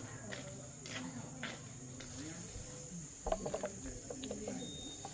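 Insects chirring in a steady high-pitched drone, with a few scattered clicks and a brief run of quick ticks a little past halfway.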